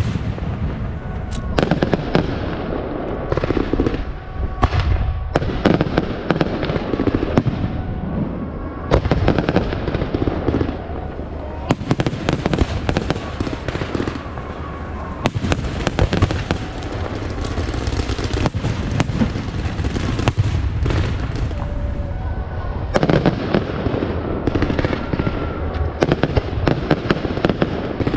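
Aerial fireworks going off in a dense, continuous barrage of sharp bangs and crackles over a steady low rumble.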